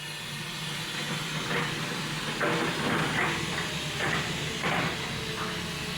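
Steady hissing noise over a low, even hum, with faint indistinct voices in the background partway through.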